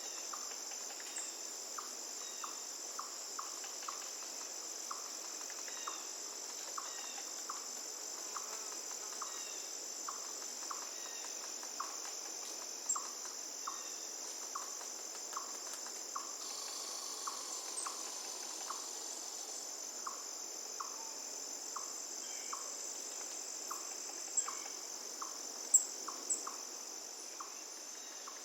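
Forest ambience: insects trilling in one steady high-pitched drone, with a short chirp repeated about twice a second and a few louder sharp notes near the end.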